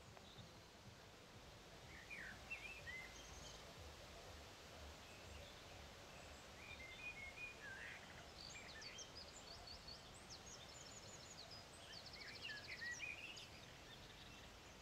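Faint outdoor ambience with several small birds chirping and trilling, busier in the second half, with a fast trill of rapidly repeated notes a little before the end, over a low background rumble.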